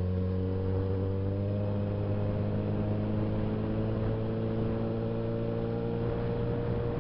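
Suzuki Bandit 650S inline-four motorcycle engine pulling under load, its pitch climbing slowly and evenly as the revs build, then dropping off right at the end as the throttle is eased.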